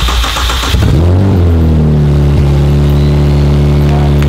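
BMW 335i's freshly swapped-in turbocharged inline-six starting up: about a second in it catches, the revs rise briefly, then it settles into a steady idle. This is the first start of the replacement engine after the swap.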